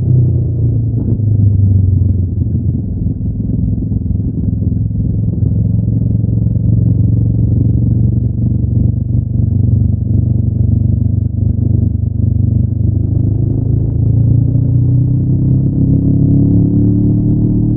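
Engine of a 2025 Honda NX500, a parallel twin with its stock exhaust, running steadily under way on a ride. The note holds fairly even and then rises over the last few seconds as the bike accelerates.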